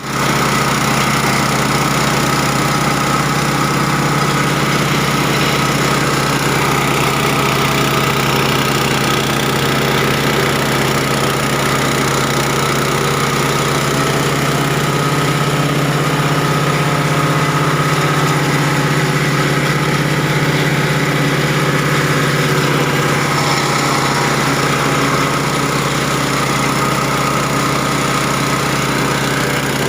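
Multipurpose cassava chopper-grinder machine running steadily, its drive giving a constant low hum with a noisy upper hiss that does not change.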